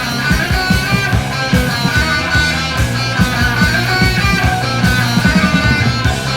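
Heavy metal band playing: electric guitar over bass guitar and drums, with a steady beat.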